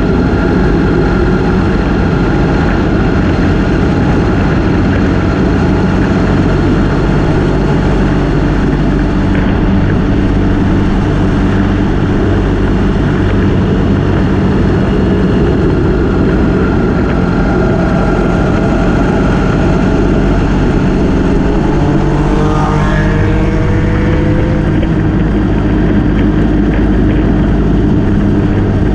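Motorcycle engine running at a steady cruise with wind rushing past, loud throughout. A short rising whine comes in about three quarters of the way through.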